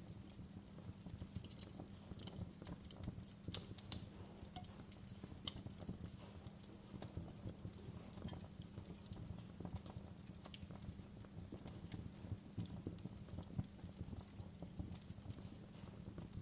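Wood fire crackling in a fireplace: a steady low rumble under frequent, irregular sharp crackles and pops, with one louder pop about four seconds in.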